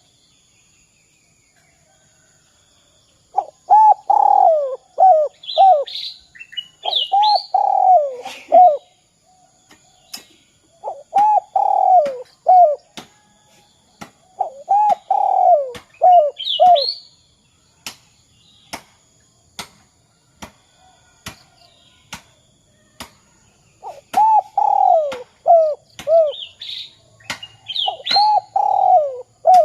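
Spotted dove (derkuku) cooing, the 'kuk 2' song type: six phrases, each a rolling coo ending in two short 'kuk' notes, starting a few seconds in. Brief high chirps come between phrases, and sharp clicks repeat roughly every second in the second half.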